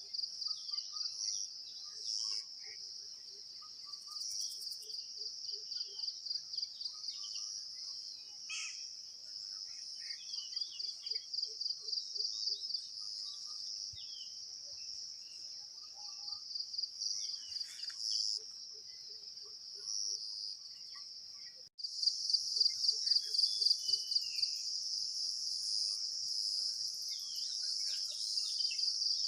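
A chorus of insects trilling in a steady, rapidly pulsing high band, with scattered short bird chirps and calls over it. About three-quarters of the way through it cuts abruptly to a louder stretch of the same kind of chorus.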